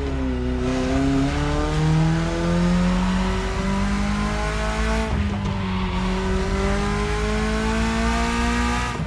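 BMW E30 engine pulling under acceleration, its pitch climbing slowly and steadily. There is a brief dip about five seconds in, like a gear change, and the pitch drops again at the end.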